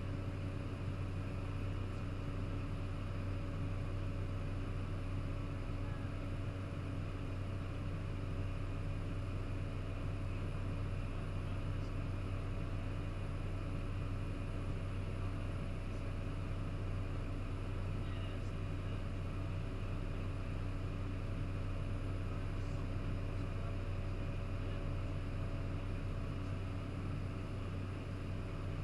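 Cessna 208 Caravan's Pratt & Whitney PT6A turboprop engine and propeller droning steadily in the cockpit during the climb, a deep hum with a few steady tones above it and no change in pitch or level.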